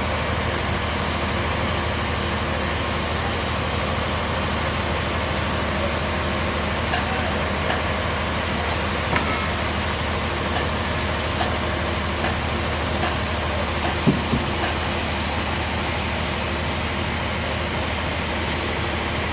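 Bandsaw sawmill running steadily: a dense hiss over a low machine hum, with a few light ticks and one sharper knock about fourteen seconds in.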